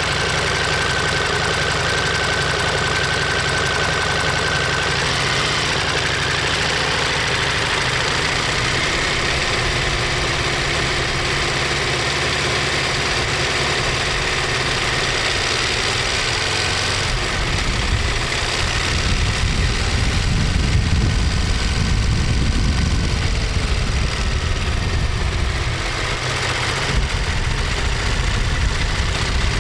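Ducati Monster 1200S L-twin engine and exhaust, heard close to the muffler, running steadily at low revs. About two-thirds of the way through it gets louder, and the pitch rises and falls as the bike is ridden harder.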